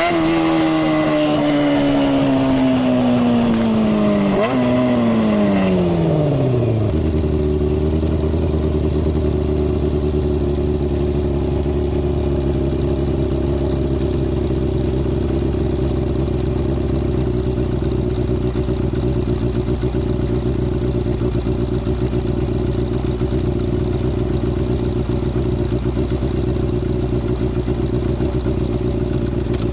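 Kawasaki Balius 250's inline-four engine winding down as the bike slows, with a quick rev blip on a downshift about four seconds in, then settling into a steady idle about seven seconds in.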